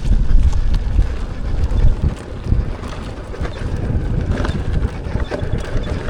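Wind buffeting the microphone during a ride on an electric unicycle along a dirt trail: a loud, continuous low rumble with scattered knocks and rattles from the rough ground.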